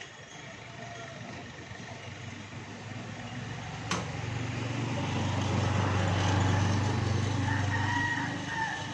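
A motor vehicle engine, heard as a low hum that swells over a few seconds and then fades, after a single sharp click about four seconds in. A rooster crows faintly near the end.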